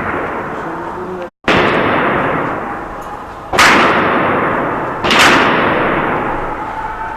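Heavy gunfire in a town: loud reports about every second and a half, each followed by a long echo that dies away slowly.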